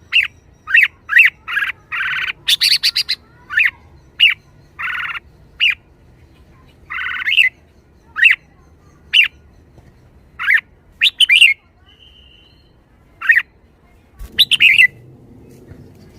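Red-whiskered bulbul calling in a lively run: short sharp chirps mixed with longer harsh, buzzy notes, coming every half second or so, with a short pause about three quarters of the way through.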